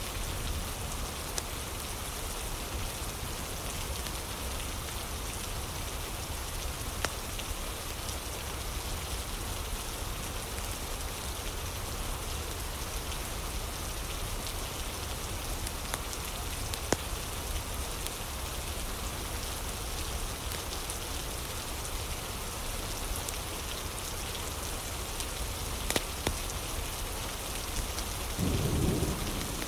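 Steady rain, with a few sharp crackles from a wood fire scattered through it. A short low rumble comes near the end.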